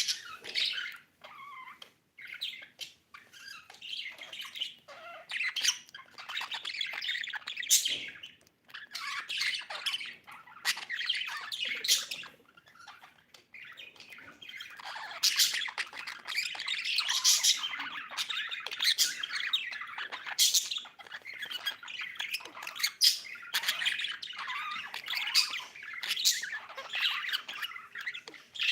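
Budgerigar chirping and chattering almost without pause, with short, louder calls now and then.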